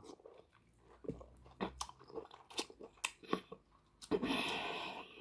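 Close-up mouth sounds of someone eating boiled lobster meat: wet chewing and smacking with a string of small clicks, then a drawn-out hiss of air about a second long near the end.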